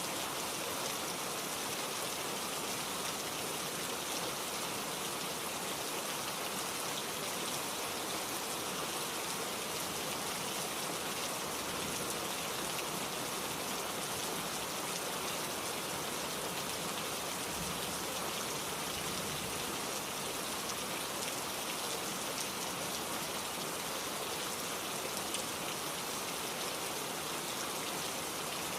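Steady rain falling, an even patter of raindrops on a surface.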